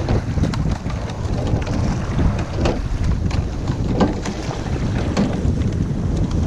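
Wind buffeting the microphone over the steady rush and rumble of a boat moving on open water, with a few brief splashes or knocks.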